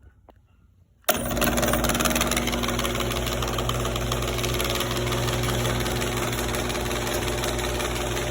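Garage door opener motor switching on suddenly about a second in and running steadily with a low hum, driving the door: the opener is answering the newly programmed remote.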